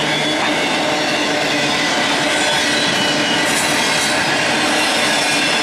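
Double-stack intermodal freight train passing, its well cars rolling by with a steady loud rumble and rattle of wheels on rail.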